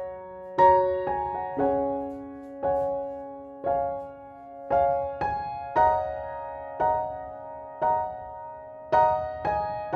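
Background piano music: slow, gentle chords struck about once a second, each note ringing and fading.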